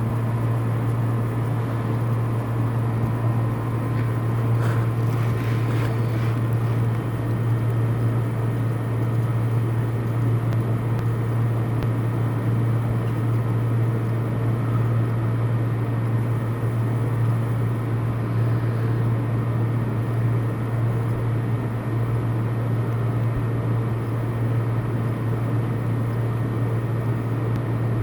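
Steady low mechanical hum, like a fan or motor, with only a few faint brief sounds about four to six seconds in.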